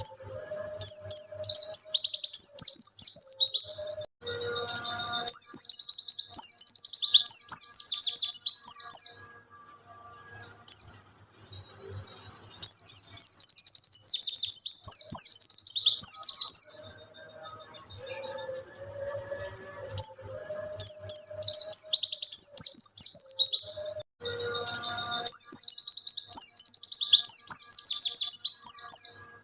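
White-eye (pleci) singing in rapid, high-pitched twittering phrases of about four seconds each, five times, with short pauses between them.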